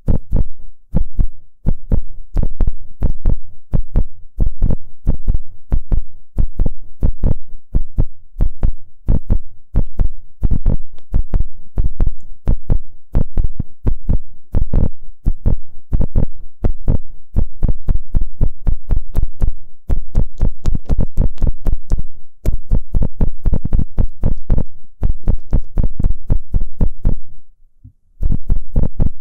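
Ear-cleaning tool worked against a microphone's ear: rapid, muffled thumping and rubbing strokes, about three or four a second, with faint scratchy clicks on top. The strokes stop briefly near the end, then start again.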